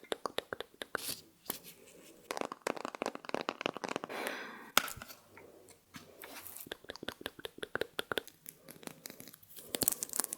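Close-miked ASMR trigger sounds: rapid small clicks and crackles, with a brief soft hiss about four seconds in.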